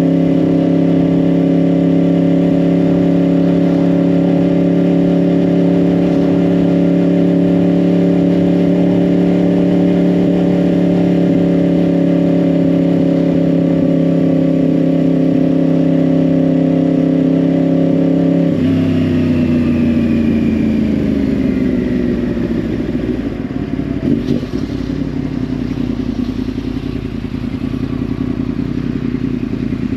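2010 Yamaha R1's crossplane inline-four with a Yoshimura exhaust, held at steady revs under way. About 18 seconds in the throttle closes and the revs fall away smoothly over a few seconds, settling into a lower, rougher running note.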